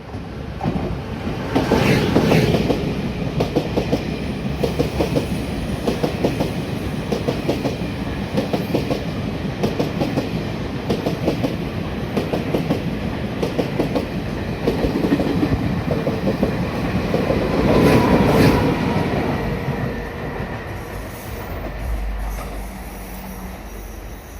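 Tze-Chiang limited express passing through the station without stopping, its wheels clattering quickly and steadily over the rail joints. The clatter is loudest at the start and again near the end of the train's pass, then fades away.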